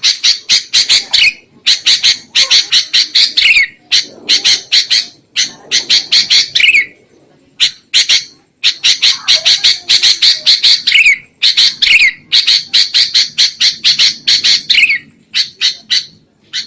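Sooty-headed bulbuls giving harsh, rapid scolding calls in bursts of a second or two, several runs ending on a falling note. This is the agitated 'kutilang ribut' chatter used as a lure to draw in wild bulbuls.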